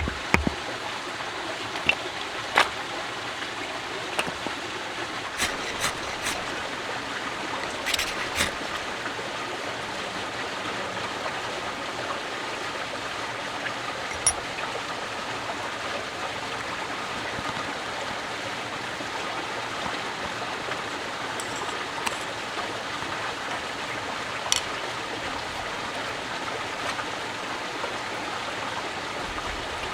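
Steady flowing water, with scattered sharp clicks and knocks, most of them in the first few seconds.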